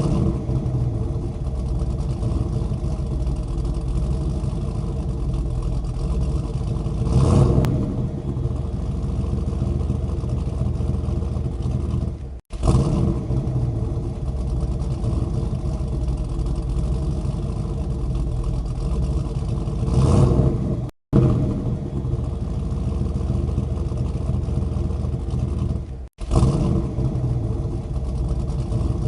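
An engine running steadily, swelling louder briefly twice. The sound drops out abruptly three times, at edit cuts.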